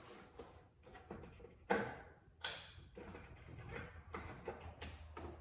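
Scattered clicks and knocks of hands and tools working the old blower motor resistor out of its mount, with two sharper knocks about two seconds in.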